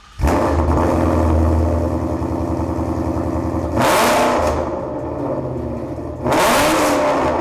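2018 Mustang GT's 5.0-litre V8 starting up and idling through Corsa long-tube headers, catless off-road mid-pipes and a Corsa Sport cat-back exhaust, then revved twice, at about four seconds and again near the end.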